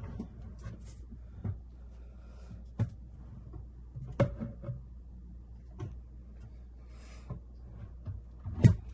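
Irregular knocks and clunks of wooden cabinet parts and boards being handled and set down, about half a dozen in all, the loudest near the end.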